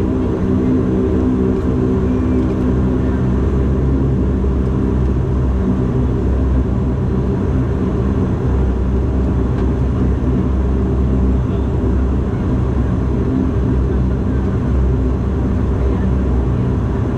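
Cabin noise of a Bombardier Dash 8-Q400's twin Pratt & Whitney PW150A turboprops: a loud, steady propeller drone with a set of even low tones, most distinct in the first few seconds, over a continuous rumble.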